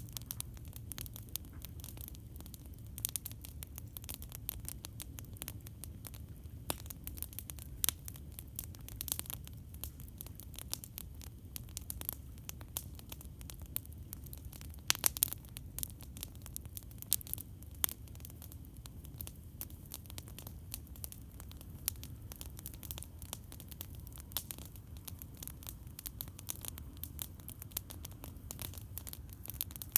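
Campfire crackling: a dense, irregular patter of small pops and snaps over a steady low rumble, with a short cluster of louder pops about halfway through.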